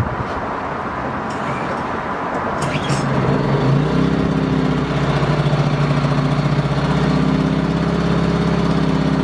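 WEN 56200i inverter generator's small four-stroke engine catching about three and a half seconds in on its pull start, then running steadily on choke for its first start. Before it catches, wind noise on the microphone and a few short rattles.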